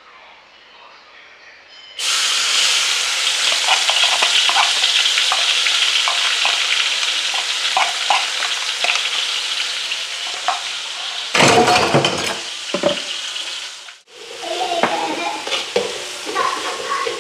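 Chopped chillies and shallots hitting hot oil in a wok, starting a loud, steady sizzle about two seconds in as sambal is fried. They are stirred with a spoon the whole time, with a short loud knock on the pan about halfway and spoon scrapes near the end.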